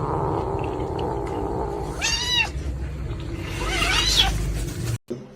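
A domestic cat vocalising: a long, low, drawn-out yowl, then a short clear meow about two seconds in and a longer, wavering meow near four seconds, cut off suddenly near the end.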